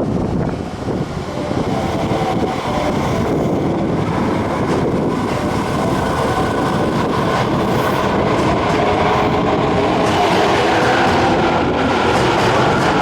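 Subway train moving along an underground station platform: a loud, continuous rail rumble, with a steady motor whine coming in over the second half.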